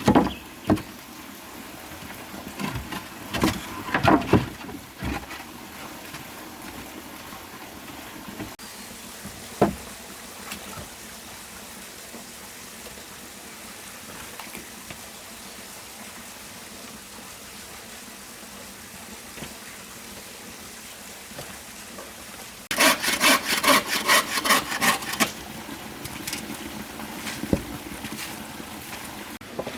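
Hand-tool building work: scattered sharp knocks in the first few seconds and another about ten seconds in, then a run of rapid rhythmic strokes lasting about two seconds near the end, over a steady background hiss.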